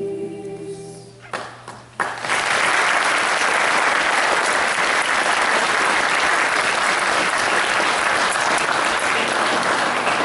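The last held chord of a choir piece dies away, then, about two seconds in, an audience breaks into loud, steady applause.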